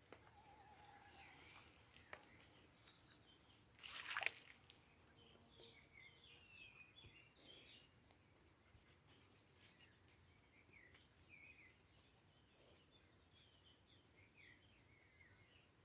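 Faint outdoor birdsong: many short chirps and trills from several small birds, with a short burst of noise about four seconds in.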